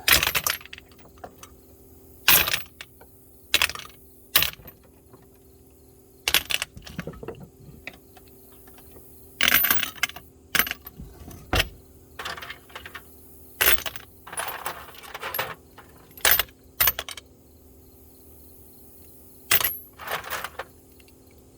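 Steel tool sockets clinking against each other as they are handled and dropped into a container: sharp clinks at irregular intervals, some in quick clusters.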